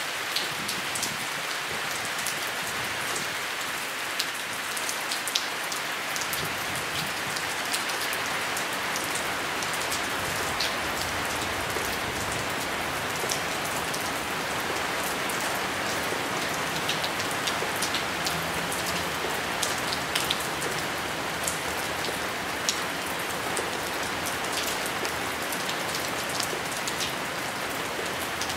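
Steady rain falling, an even hiss with many sharp taps of individual drops striking close by scattered through it.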